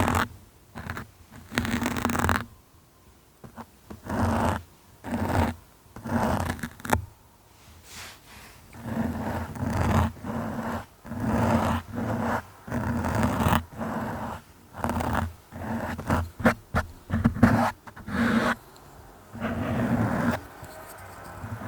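Close-up scratching and scraping strokes on a surface, one after another at an uneven pace, each well under a second to about a second long. Near the end a steadier, continuous rubbing noise comes in.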